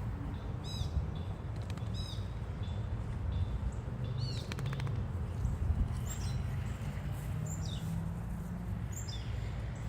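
Small birds chirping: short, high calls that sweep downward, repeated several times at irregular intervals over a steady low rumble.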